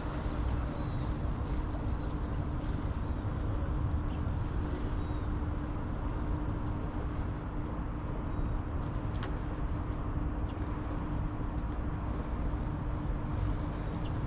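Steady outdoor riverside ambience: a constant low rumble with an unbroken hum like a distant motor running, and one short click about nine seconds in.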